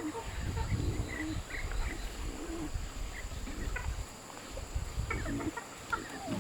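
Short scattered calls of farm animals, with a steady low rumble underneath.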